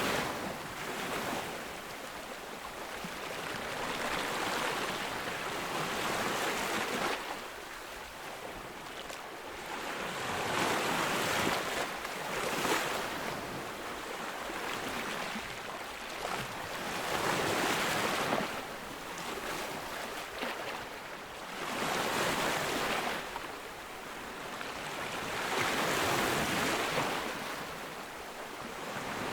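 Ocean waves breaking on a beach, each one swelling to a rush of surf and washing back, about every five seconds.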